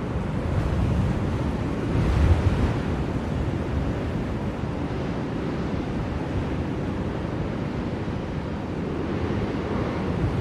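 Blizzard wind blowing as a steady low rush, swelling briefly about two seconds in.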